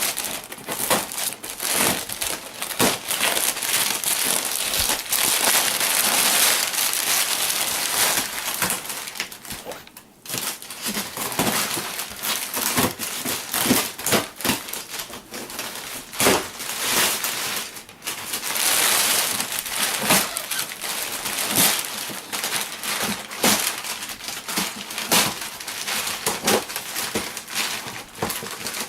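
Packing material crumpling and crinkling as it is pulled out of a shipping box, with many small crackles and handling clicks and a brief lull about ten seconds in.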